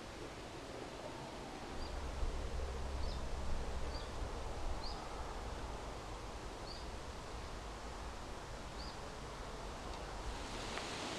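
Outdoor ambience: a bird gives short, high chirps every second or two over a steady hiss and a low rumble that swells about two seconds in and eases by the middle.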